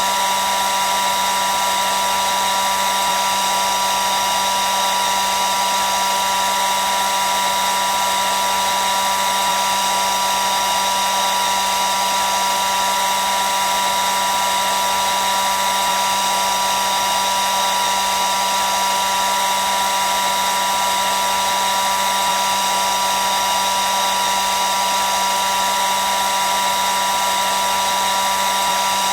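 Hair dryer running steadily: a continuous rush of air with a steady motor whine.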